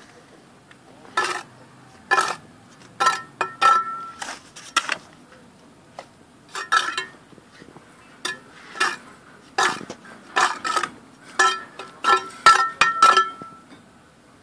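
A metal masonry tool striking bricks during bricklaying: about two dozen sharp, ringing clinks in irregular clusters, several of them with a short metallic ring.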